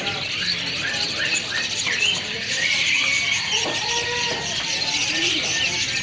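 Many caged songbirds chirping and singing at once: a dense, overlapping chorus of short chirps and quick rising and falling notes.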